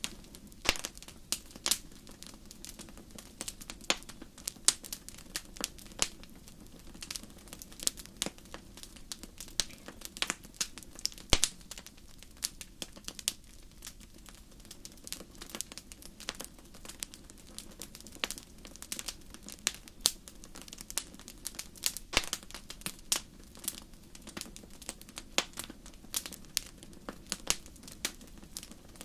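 Wood fire crackling: irregular sharp pops and snaps, several a second, over a low steady rumble of flame.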